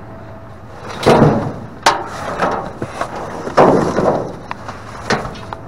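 Items being shifted around in a dumpster: a few wooden-sounding knocks, bangs and scraping thuds, loudest about a second in and again midway.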